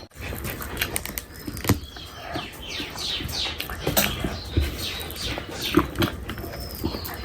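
Close-miked wet eating sounds of rice and curry: a busy run of chewing, smacking and squelching clicks.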